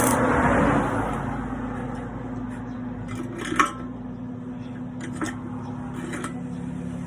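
A steady electrical hum with a few sharp metallic clinks, one at about three and a half seconds the loudest.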